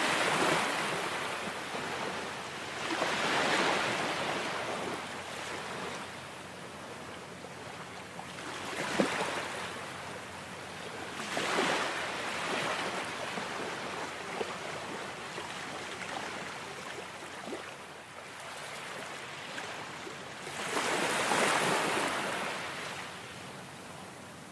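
Ocean surf: waves breaking and washing up a shore, the rush of water swelling and ebbing every few seconds.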